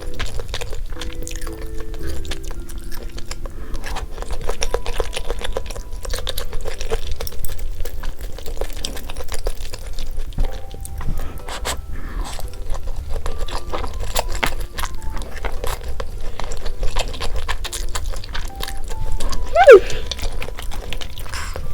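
Crisp, crunchy bites and chewing of fried chicken close to the microphone, over light background music. A brief swooping tone sounds near the end.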